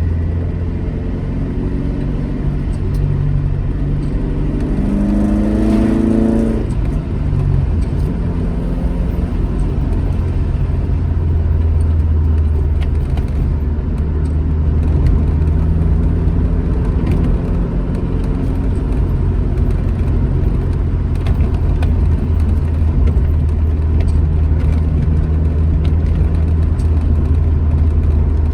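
Alfa Romeo GT Junior's twin-cam four-cylinder engine running on the road with a steady low rumble. About four seconds in, the engine note climbs for a couple of seconds, then falls away sharply, and the car carries on at a steady pace.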